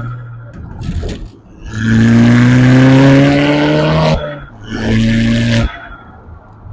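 Car engine accelerating hard, its pitch rising steadily for about two seconds before cutting off abruptly, then a second, shorter hard pull that also ends suddenly, as at a gear change. Brief engine blips come in the first second.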